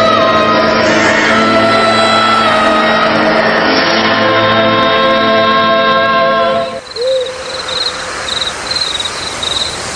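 Music with held tones plays for the first two-thirds, then cuts off. It gives way to a night-forest ambience of crickets chirping in quick high pulses, with a single low owl-like hoot just after the music stops.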